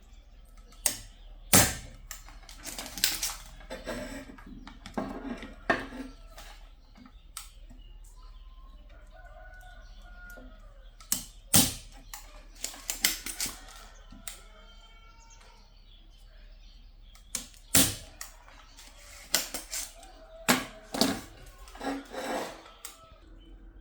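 Tools and parts knocking and clattering as they are handled on a workbench: irregular clusters of sharp clicks and knocks, the loudest about a second and a half, eleven and a half, and eighteen seconds in.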